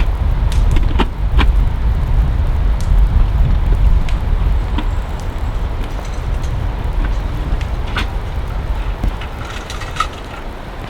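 Heavy rain: a steady low rumble with scattered sharp drop hits.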